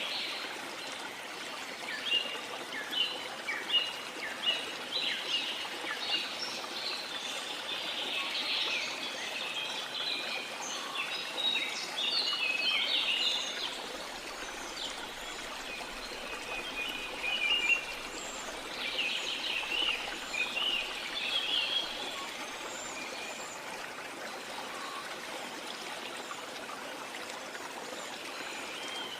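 Many birds chirping and singing in quick, overlapping short calls over a steady rush of falling water. The birdsong is busiest through the first half and again about two-thirds of the way in, thinning out near the end.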